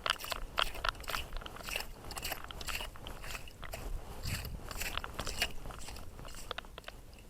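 Crunchy scraping through wet sand and shell while digging for hard clams, in quick, irregular strokes, a few each second.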